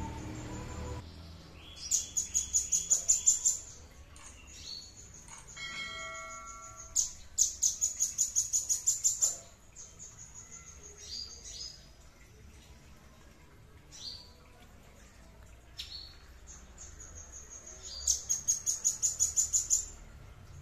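A songbird singing: three runs of rapid, high, sharp repeated notes, each lasting about a second and a half, with softer short calls in between.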